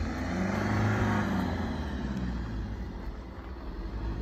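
A car engine running close by, its pitch rising and then easing off, loudest about a second in.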